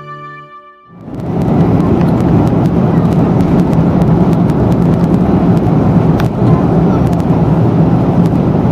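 Airbus A330 airliner heard from inside the passenger cabin: a loud, steady rush of engine and airflow noise with a low hum, starting about a second in as the music fades out, with a few faint ticks and rattles.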